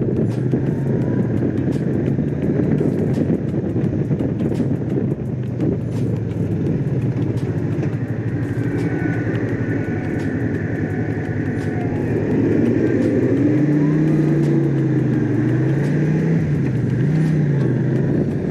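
Honda CX500 V-twin engine running under way on a ride, with wind noise. The engine note holds steady at first, then grows louder in the second half and rises and falls a few times as the revs change.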